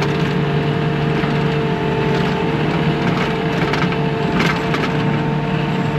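Bobcat T630 track loader's diesel engine running steadily under load, with the crunching and scraping of its bucket's cutting edge working through compacted base rock; a couple of sharper crunches stand out.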